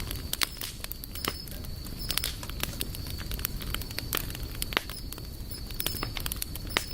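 Wood campfire crackling: irregular sharp pops and snaps from burning wood over a steady low rumble of flames.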